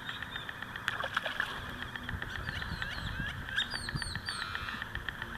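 Small birds chirping: a run of short, quick chirps, some falling in pitch, over a low, even background with a few faint clicks.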